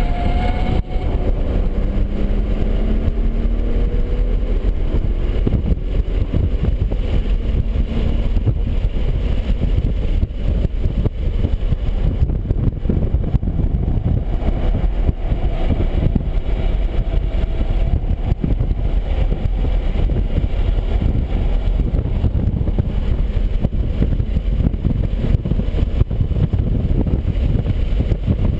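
BMW 135i's turbocharged straight-six running hard on a race track, its pitch rising and falling through the first few seconds, under a heavy, steady rumble of wind and road noise.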